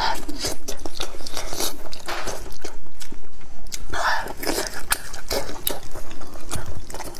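Close-up eating sounds: biting into and chewing roasted sheep's head meat, a rapid run of wet smacks and crunchy clicks.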